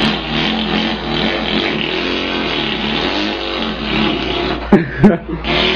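A man imitating an engine with his voice: a wavering engine-like drone that rises and falls in pitch, with two sharp pops near the end. Steady guitar music comes in just before the end.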